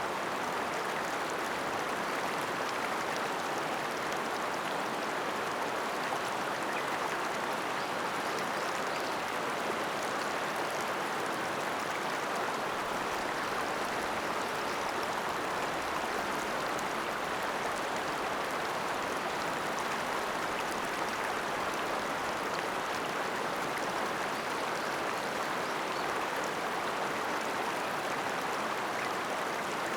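The Ota River's water flowing, a steady, unchanging rush of moving water.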